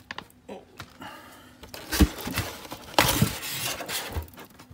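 Handling noise from a porcelain doll being shifted and pried at in its moulded styrofoam packaging: rubbing and scraping with sharp knocks about two and three seconds in, the first the loudest.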